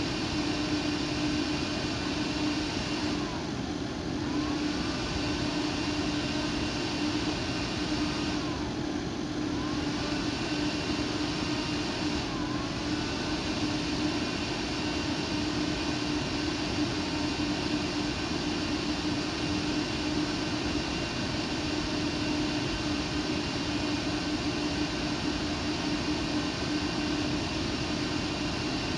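Computer air-cooling fan running steadily at speed: a continuous rushing whoosh with a steady hum tone. The hiss dips briefly a few times.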